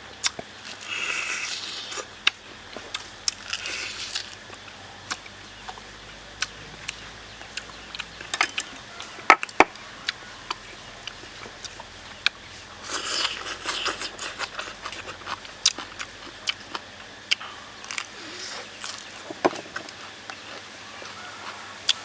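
A person eating close to the microphone: chewing and biting, with scattered sharp clicks and a few short crunchy bursts.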